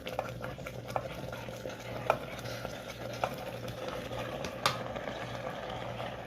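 A spoon stirring food in a pan, knocking sharply against the pan about once a second, over a steady sizzle.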